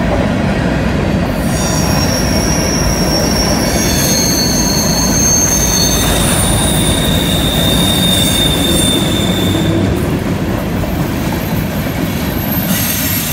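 Freight train's covered hopper cars rolling past on a curve: a steady rumble of wheels on rail, with shrill wheel squeal from the curve starting about a second in. The squeal holds several high tones that change pitch as different wheels squeal, dies down around ten seconds in and returns near the end.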